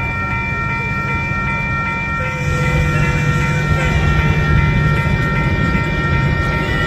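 Metra bilevel commuter train pulling away from the platform: a low rumble of the train moving on the rails that grows louder about two seconds in, with a steady high whine throughout.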